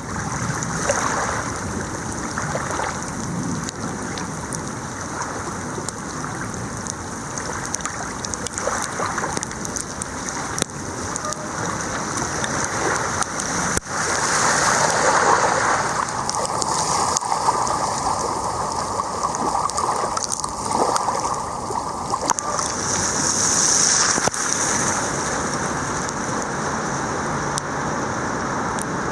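Steady rushing noise of a mountain bike ride on a wet trail in the rain: tyres rolling over wet ground and air rushing past, with occasional sharp clicks and knocks.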